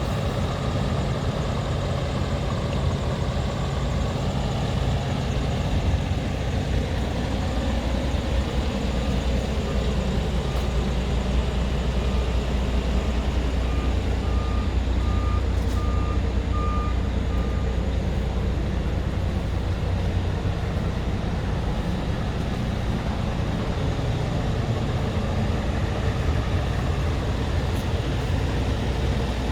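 Scania R tractor unit's diesel engine running steadily with a deep rumble. A series of short beeps, growing louder, sounds from about nine to eighteen seconds in.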